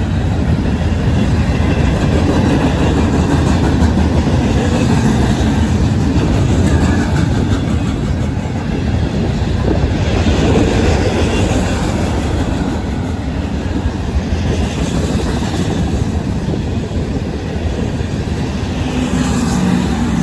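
Norfolk Southern freight train rolling past at speed, a steady loud rumble with wheels clattering over the rail joints.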